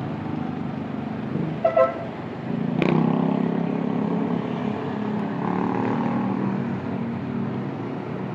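Motor-scooter riding sound: a steady engine hum with traffic, picked up by a phone headset microphone under app noise suppression. About two seconds in there is a short double horn toot, followed shortly after by a sharp click, and the engine hum swells again.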